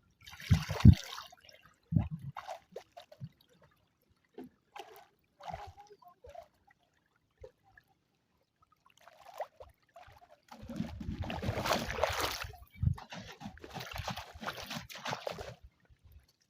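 Water splashing and sloshing as a container is rinsed by hand: scattered small splashes at first, then heavier sloshing with dull thuds for about five seconds from about ten seconds in.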